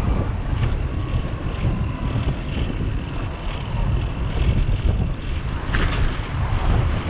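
Wind buffeting the microphone of a camera on a moving bicycle, a steady rumble with street traffic behind it. A brief sharp sound comes near the end.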